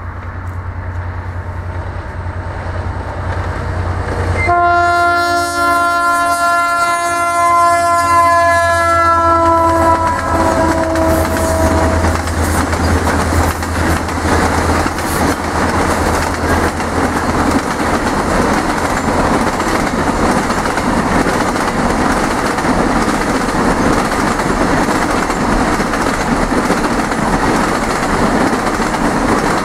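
Fepasa's D-2355 and D-2358 diesel freight locomotives approach with a low engine drone. About four and a half seconds in, a multi-note horn sounds for about seven seconds, its pitch dropping as the locomotives pass. Then the container and cement wagons roll by with a loud steady rolling and clickety-clack of the wheels.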